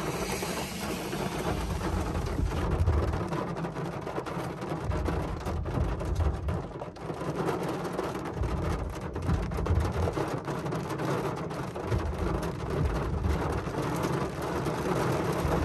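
Rain falling on a car's roof and windshield, heard from inside the car as a steady hiss with many small drop ticks. Low thunder rumbles come and go under it.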